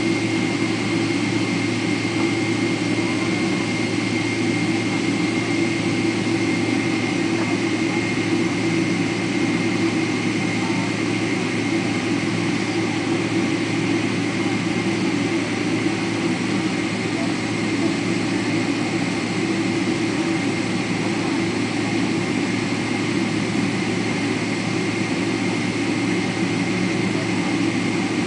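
Boeing 777-300ER's GE90-115B jet engines running steadily, heard from inside the cabin: an even, deep hum with a thin, steady high whine on top.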